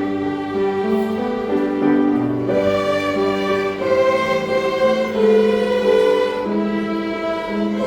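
A string ensemble of violins and cellos playing a slow hymn tune in sustained, bowed notes that move smoothly from one to the next.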